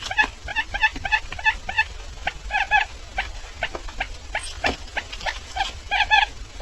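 Barred buttonquail calling: a rapid series of short chirping notes, about three to four a second, with sharp clicks mixed in.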